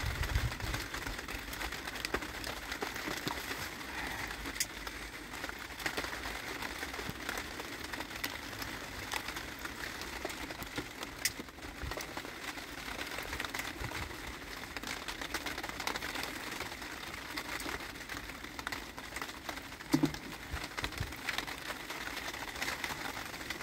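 Rain falling steadily on a roof: a dense, even patter of drops, with one dull knock near the end.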